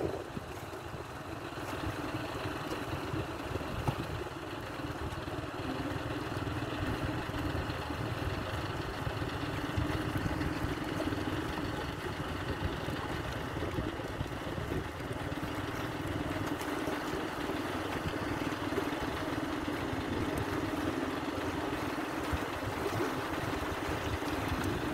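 A boat's engine running steadily, with wind noise on the microphone.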